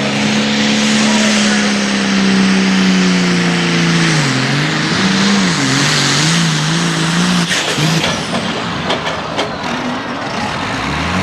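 Hot farm tractor's diesel engine at full throttle pulling the sled, a steady high engine note over a loud rush of exhaust. About four seconds in the revs sag and waver as the engine lugs under the growing load, and a few seconds later the engine note drops away.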